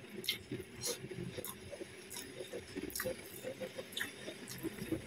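Close-miked chewing of a mouthful of rice and beef in tomato sauce, with many short wet smacks and clicks of the mouth.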